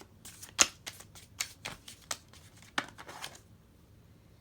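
Tarot cards being handled: a run of quick snaps and rustles over about three seconds, the sharpest near the start.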